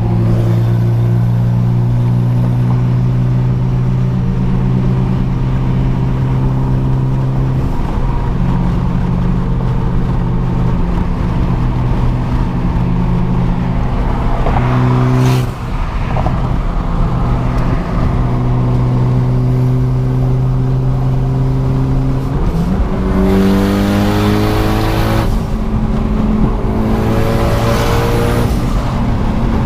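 Car engine under way, holding steady revs for long stretches with a brief break about halfway, then revving up in two rising pulls near the end, each cut short by a drop in pitch like a gear change.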